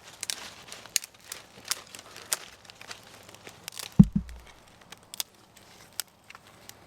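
Dry wood crackling and snapping in irregular sharp cracks, with one heavy low thud about four seconds in.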